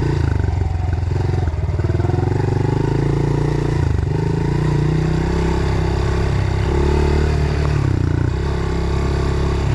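Small four-stroke off-road engine running under way, with the throttle opening and easing off several times so that the engine pitch rises and drops.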